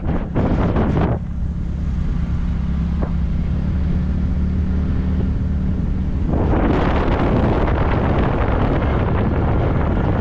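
Wind buffeting the microphone on a moving motorcycle. For a few seconds in the middle the wind eases and the engine's steady low hum comes through, then the wind noise rises again about six seconds in.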